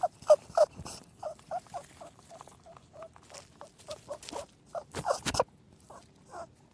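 Rabbit squeaking: a run of short, high squeaks, several a second, with a brief louder noisy burst about five seconds in.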